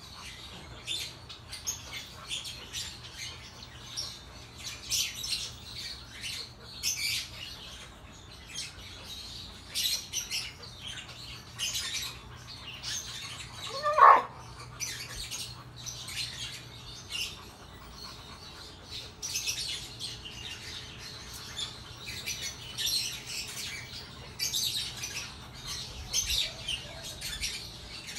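Small birds chirping over and over in short, high calls. About halfway through comes one loud, short animal call that rises and falls in pitch.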